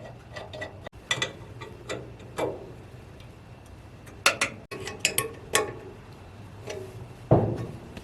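Irregular metallic clinks and knocks from hand tools and bolts on the sawmill's steel hardware as the board splitter is fitted to its channel iron mount, some ringing briefly, with the loudest knock near the end.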